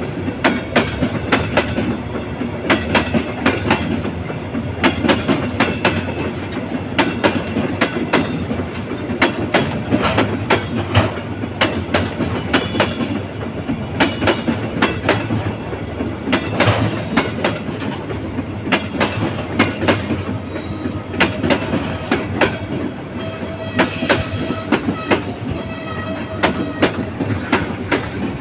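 Freight train of empty container flat wagons rolling past, wheels clicking over the rail joints in a steady clickety-clack. A thin wheel squeal rises over it near the end.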